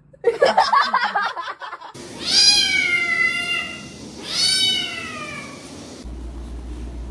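A cat meowing: a quick run of short sounds, then two long drawn-out meows that fall in pitch. A steady low hum comes in near the end.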